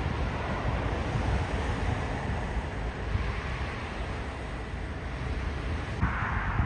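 Jet airliner engine noise, a steady rushing sound, with wind buffeting the microphone. The sound changes abruptly about six seconds in.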